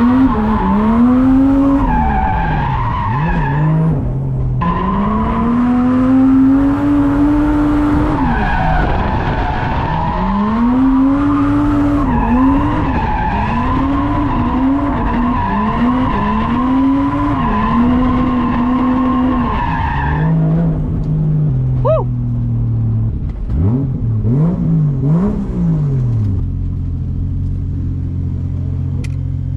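Drift car engine revving hard, its pitch rising and falling again and again with tyres skidding. About twenty seconds in the revs drop, a few quick throttle blips follow, and the engine settles to a steady idle near the end.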